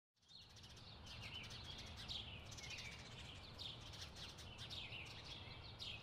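Faint outdoor birdsong: a run of short chirps, each falling in pitch, repeated several times a second, over a low steady background rumble.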